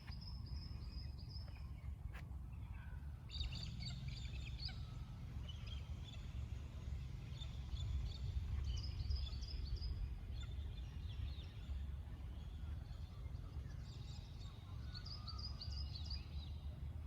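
Several birds chirping and chattering in quick bouts of calls, over a steady low rumble.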